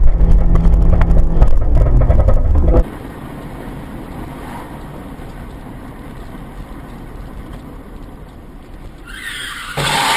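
Car driving noise as picked up by a dashcam: loud, deep engine and road noise that cuts off abruptly about three seconds in, then steadier, quieter road noise, and a louder burst of sound near the end.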